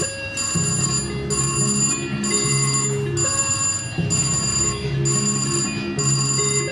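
Slot machine playing its electronic win jingle after a $500 hit: bell-like chimes and tones in a repeating pattern, layered over the casino floor's other machine tones.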